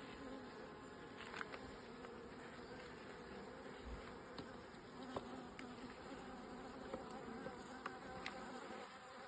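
Honeybee colony buzzing during an open-hive inspection, a steady, faint hum, with a few faint clicks scattered through it.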